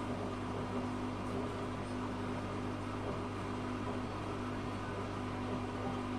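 Zanussi FA623 washing machine running with a steady, even hum and no change in pace.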